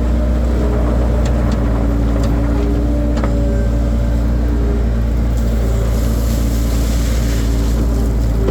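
Skid steer loader's engine running steadily and loudly, with a steady whine above the drone and a few sharp clicks or knocks.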